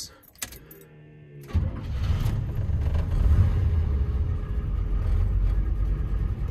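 Blueprint 400 small-block V8 running through a true dual exhaust with Dynomax Super Turbo mufflers and Vibrant resonators, heard from inside the truck's cab. It comes in suddenly about a second and a half in as a low, steady engine note and holds.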